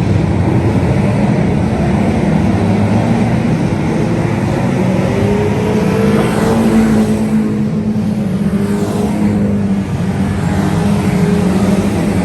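2-litre saloon stock cars racing round an oval, several engines running hard together at a steady pitch, with a few cars sweeping past in the second half.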